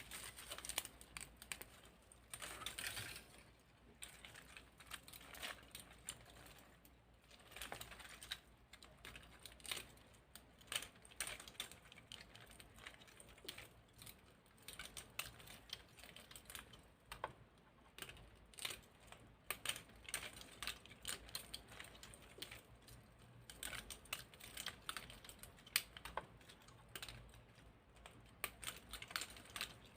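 Light, irregular clicking and tapping of small hard plastic parts: the jointed segments of a 3D-printed centipede clicking against each other as it is handled.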